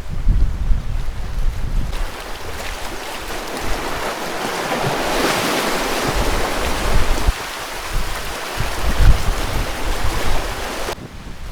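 Sea surf washing onto the beach, swelling to a louder wash around the middle, with wind buffeting the microphone in uneven low rumbles. The wash cuts off sharply near the end.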